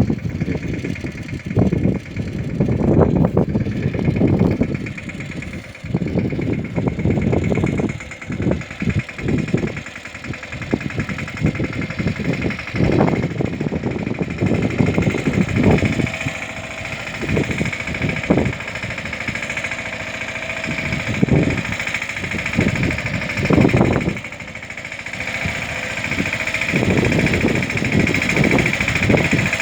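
Mahindra Yuvraj 215 mini tractor's single-cylinder diesel engine running, its loudness rising and falling unevenly.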